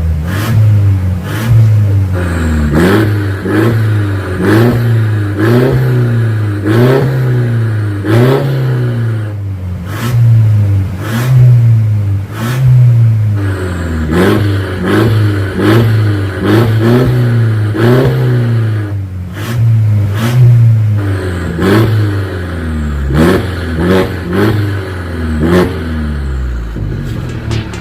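Mercedes-Benz C300 W205's turbocharged four-cylinder engine breathing through an aftermarket full-system valved stainless-steel exhaust, revved in repeated short throttle blips, roughly one a second, pitch rising and falling each time.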